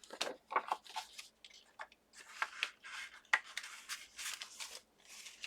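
Paper and cardstock being handled: irregular rustling, sliding and light taps as die-cut pieces are fitted into an envelope.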